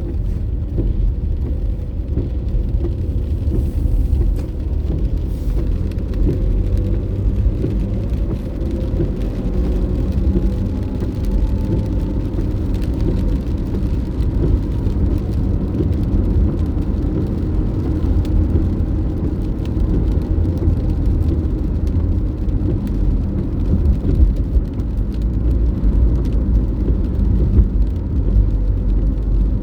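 A car driving, with a steady low rumble of road and engine noise and a faint rising tone about ten seconds in.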